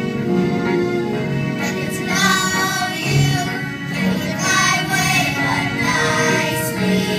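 A group of singers performing a song over instrumental accompaniment, the voices coming in about one and a half seconds in.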